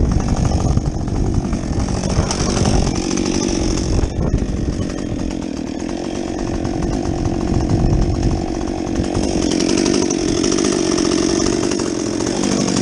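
Husqvarna 562XP two-stroke chainsaw with a modified muffler, running hard and cutting wood. The engine pitch dips and rises several times as the load changes.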